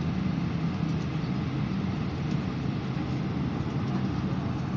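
Steady low hum inside the cabin of an Airbus A319 parked at the gate.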